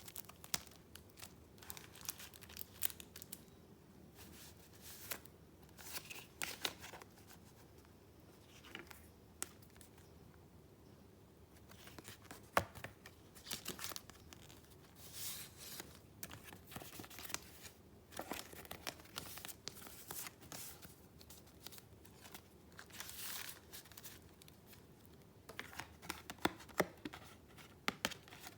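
Paper being handled: sheets and pieces of a handmade junk-journal paper-share book rustling and crinkling in short irregular bursts with light clicks, with a quieter stretch about a third of the way in.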